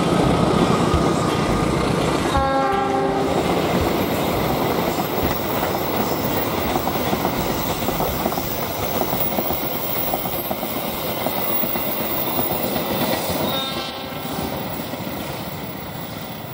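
Passenger train coaches rolling past at speed: a steady rumble and clatter of wheels on the rails, with a short horn blast about two and a half seconds in. The noise steps down near the end, where a brief second tone is heard.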